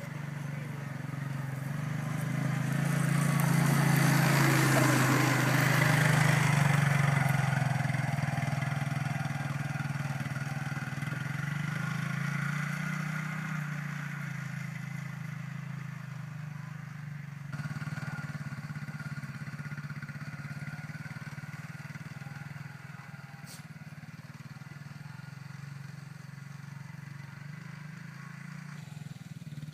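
ATV engine running steadily as the machine is ridden. It swells louder with added rushing noise for a few seconds near the start, then settles, with abrupt changes in the sound about midway and near the end.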